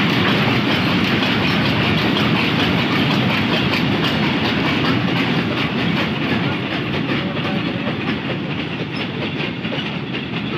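A long rake of railway oil tank wagons rolling past at speed, their wheels clattering steadily over the rail joints. The noise eases off a little near the end as the last wagons and the brake van go by.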